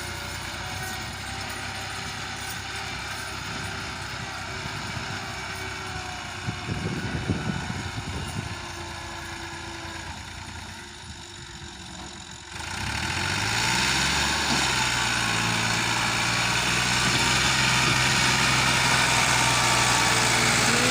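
Massey Ferguson 260 tractor's diesel engine running at a low steady speed, with a short burst of rattling about seven seconds in. About twelve seconds in it suddenly gets louder and revs up, its pitch climbing over a second or two, then runs steadily at the higher speed.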